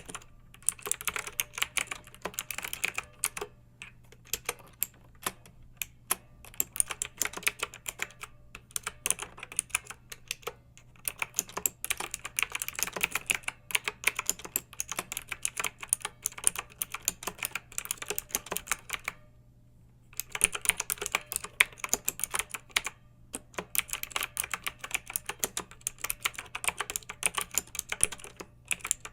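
Clicky mechanical keyboard being typed on in fast, steady runs of keystrokes, broken by brief pauses, one of about a second roughly two-thirds of the way through. A faint steady low hum lies underneath.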